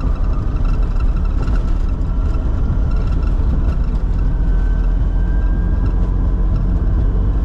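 Cockpit noise of a Bombardier Challenger 605 taking off at full thrust: its two GE CF34 turbofans and the airflow make a steady, loud low rumble, with a faint whine that rises slowly in pitch.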